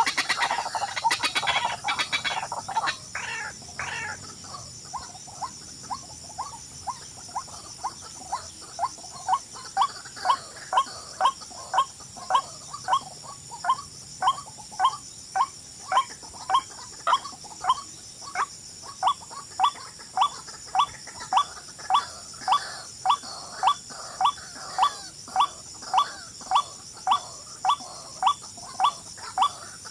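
A bird calling one short, sharp note over and over at an even pace, about three calls every two seconds. The calls begin a few seconds in and grow louder about a third of the way through.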